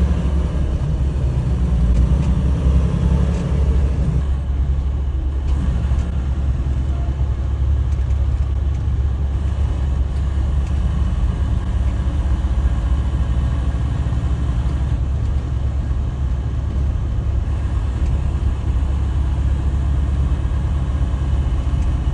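Steady low rumble of a semi-truck's engine and road noise inside the cab while driving. A pitched engine note sits over it for the first few seconds and fades about four seconds in.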